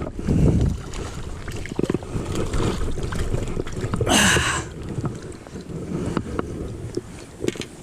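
Flowing river water with wind buffeting the microphone, and one brief splash about four seconds in.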